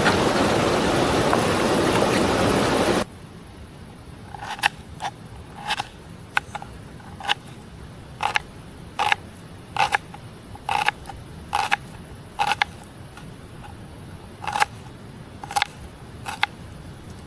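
Rushing mountain river water, which cuts off about three seconds in. Then a quieter stretch with a series of short, irregularly spaced clicks or taps.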